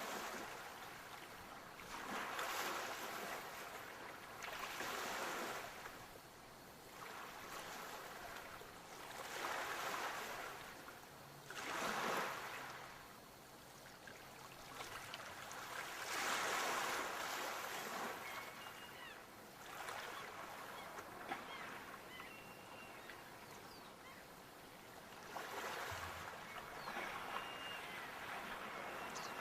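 Sea waves breaking and washing in, a new surge swelling and fading every two to four seconds.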